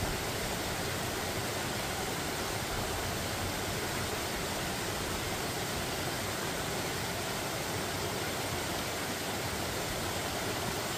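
Steady, even rush of a mountain valley stream flowing over rocks.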